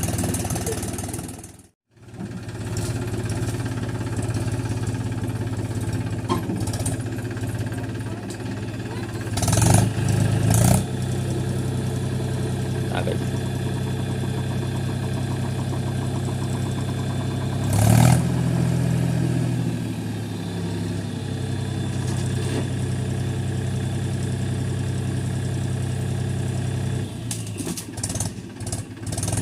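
Mahindra 265 DI tractor's diesel engine running steadily, with a brief drop-out about two seconds in and louder surges about ten and eighteen seconds in.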